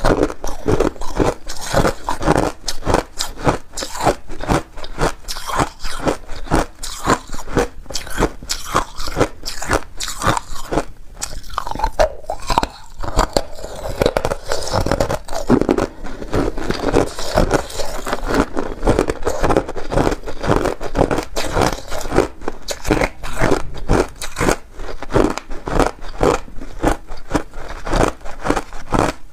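Someone chewing and crunching ice in their mouth, a dense run of rapid, loud crunches.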